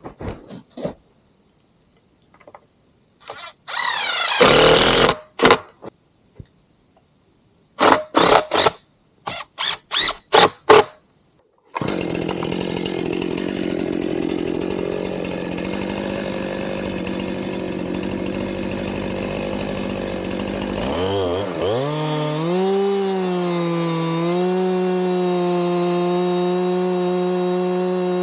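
Two-stroke chainsaw being started and run: a few short sputtering noises, then the engine catches about twelve seconds in and runs steadily. About nine seconds later the revs waver and climb, then hold steady at high speed, ready for a milling cut.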